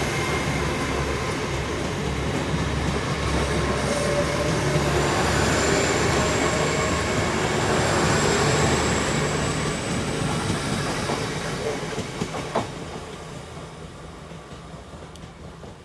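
LNER Azuma (Hitachi Class 800 bi-mode) train running on its diesel engines as it passes the platform and pulls away, with a low rumble, a thin high whine and wheels clicking over the rail joints. The noise fades steadily over the last several seconds as the train recedes.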